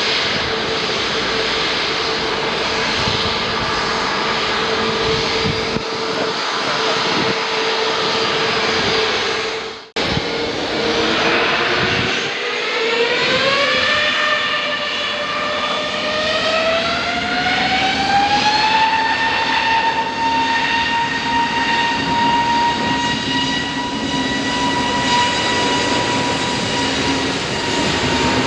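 Airbus A320neo jet engines running with a steady whine, then about ten seconds in the whine rises in pitch over several seconds and holds at a higher, steady pitch: the engines spooling up to takeoff thrust.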